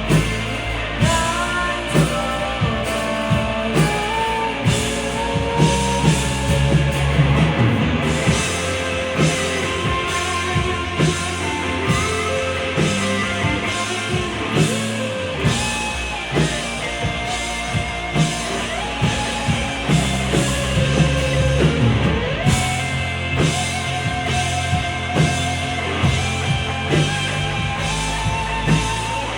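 Live rock band playing: electric guitar melody lines over bass and a steady drum-kit beat.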